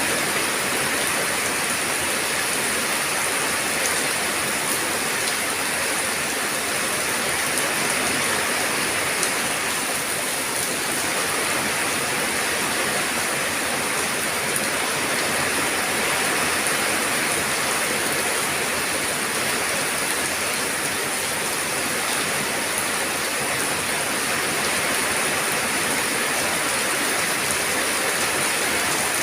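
Steady rain falling, a continuous even hiss with faint drop ticks and no breaks.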